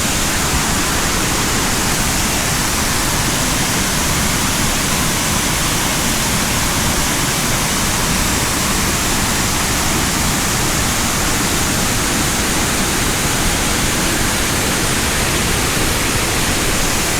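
The Great Falls of Tinker's Creek, a waterfall, giving a loud, steady rushing roar of falling water.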